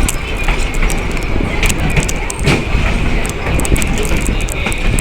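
Steam train's passenger car rolling along the track, heard from on board: a loud steady rumble with frequent clicks and knocks from the wheels and running gear.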